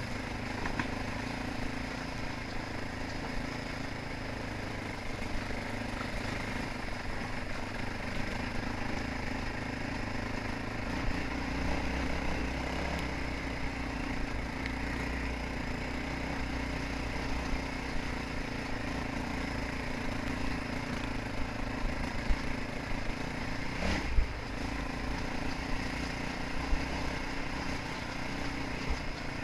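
Motocross dirt bike engine running steadily while riding, with one sharp knock late on.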